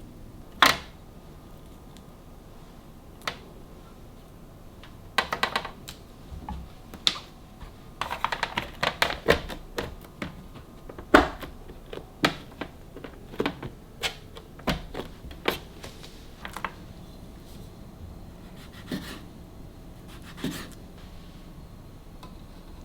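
Scattered sharp clicks and knocks of kitchen items being handled and set down, some in quick runs of taps, with one louder knock about eleven seconds in.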